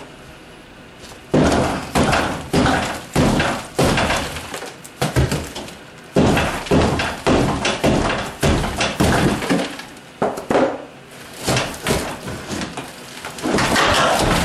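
Old, rotten wooden shelving being knocked and broken apart: a quick run of heavy knocks and cracking wood, starting about a second in, with a short pause about two-thirds of the way through.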